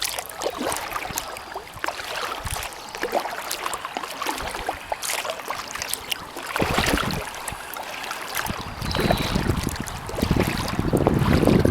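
Kayak paddling: splashes and water trickling and dripping off the paddle blades in many small ticks. Wind buffets the microphone more and more near the end.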